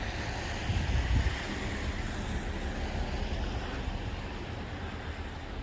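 Wind buffeting the microphone outdoors: an uneven low rumble under a steady rushing noise.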